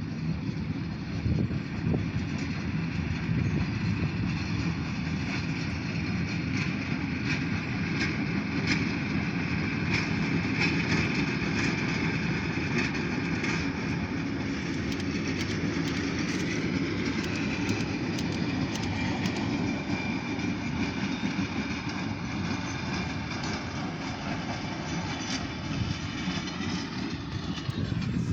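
Diesel locomotives running light along the track, a steady engine rumble with a run of sharp clicks from the wheels, thickest from about eight to twenty seconds in.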